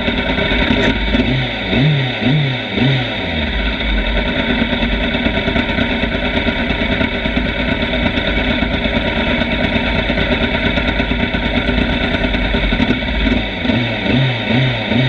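Motorcycle engine running, its note rising in short repeated sweeps about two seconds in and again near the end.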